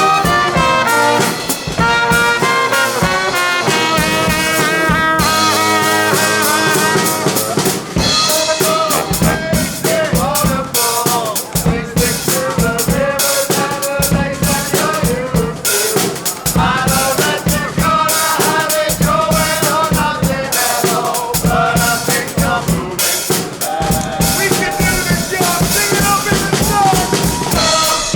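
Live brass band playing: trumpet and trombone lines over a drum kit keeping a steady beat.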